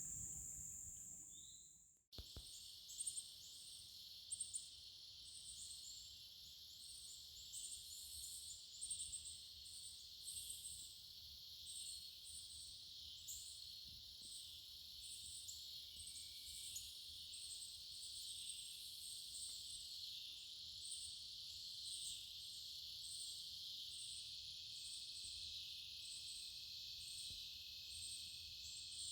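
Faint outdoor insect chorus. A steady high cricket trill fades and cuts off about two seconds in. It gives way to a steady high hiss of insects with a short chirp repeating about once a second.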